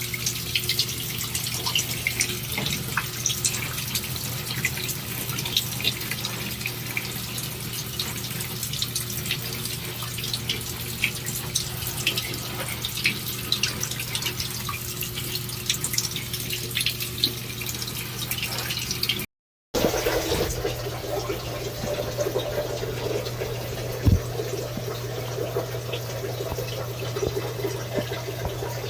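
Shower water running steadily and splattering, with a constant hiss and many small drips and splashes. About two-thirds through the sound cuts out for a moment and returns with a slightly different, fuller splashing; a single sharp knock follows a few seconds later.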